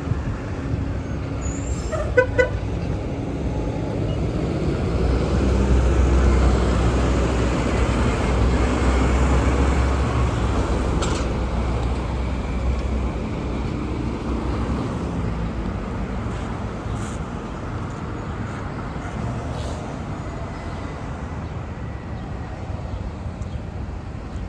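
City bus driving past close by, its engine rumble swelling and then fading over steady road traffic. A horn gives two short toots about two seconds in.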